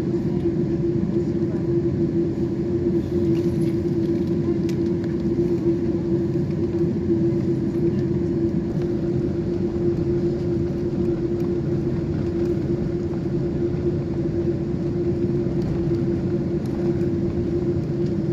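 Steady cabin drone of a Boeing 747 heard from inside the cabin: engine and airflow noise with a constant low hum, holding level throughout.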